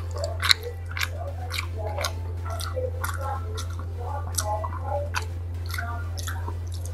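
Close-miked eating sounds of a man sucking and chewing on a mutton bone: a string of short, sharp wet smacks and slurps, over a steady low hum.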